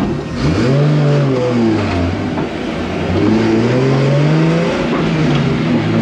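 Drift car engine revving: the revs climb and drop back twice.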